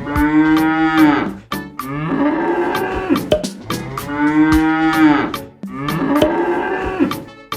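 A cow mooing four times, each a long drawn-out moo. A sharp clicking repeats at an even pace underneath.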